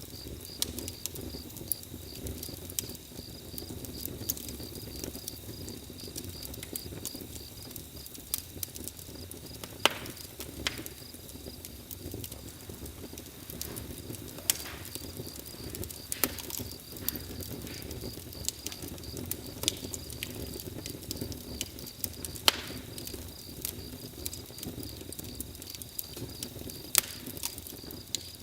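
Campfire crackling, with irregular sharp pops over a low steady rumble, and a steady high-pitched chirring throughout.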